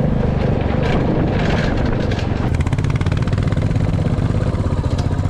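Royal Enfield Classic 350's single-cylinder engine running steadily, its exhaust giving a fast, even beat.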